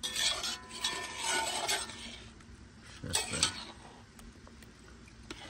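A spoon scraping and stirring against a cooking pot of curry: one spell for the first two seconds and another short one about three seconds in.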